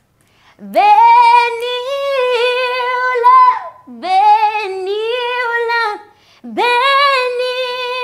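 A woman singing solo and unaccompanied in Haitian Creole, on the word "Beni" (bless). She sings three long phrases, each sliding up into held notes with vibrato.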